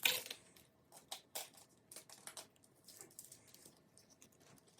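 Light, scattered rustles and clicks of album packaging and photocards being handled, with a louder rustle right at the start.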